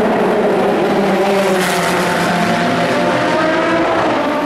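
Endurance racing cars' engines running at speed on the circuit, several engine notes overlapping and gently shifting in pitch.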